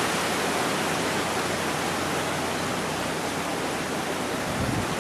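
Steady hiss of heavy rain and wind in a hurricane.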